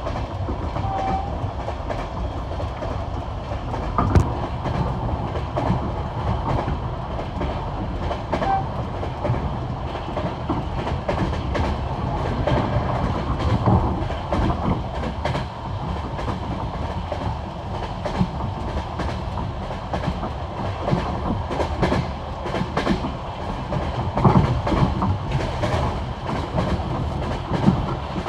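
Passenger train wheels clattering over the rail joints of jointed (bolted) track at high speed: a steady rumble with a quick run of clicks as each wheelset crosses a joint, and one sharper knock about four seconds in.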